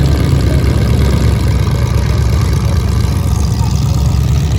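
Loud car engines running with a heavy, uneven rumble.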